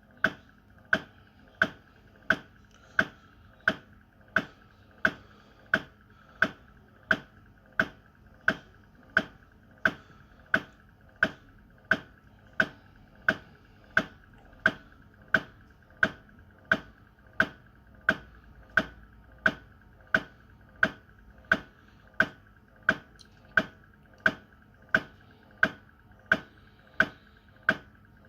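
Panasonic NR-E402U refrigerator's automatic ice-maker mechanism knocking, a steady rapid knocking of about three knocks every two seconds that stops near the end. The ice mechanism has stuck after flipping the ice tray and fails to return, so it keeps knocking: a faulty ice mechanism that needs replacing.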